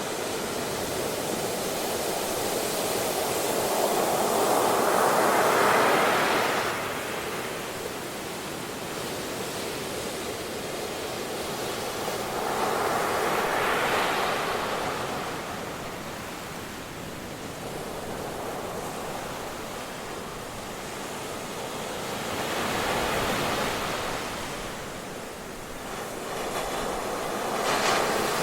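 Ocean waves breaking on a beach: a continuous rushing wash that swells four times, several seconds apart, as each wave comes in and falls back.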